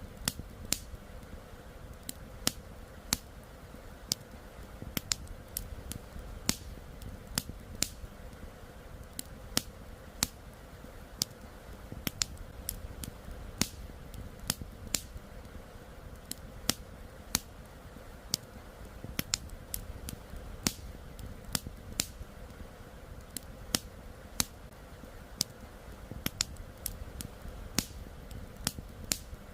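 Wood campfire crackling, with sharp irregular pops several times a second, over a low steady rush of flowing river water.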